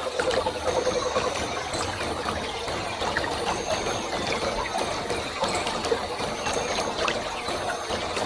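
A strong waterfall: water falling and splashing in a dense, steady rush. A brief thin high tone rises above the rush every few seconds.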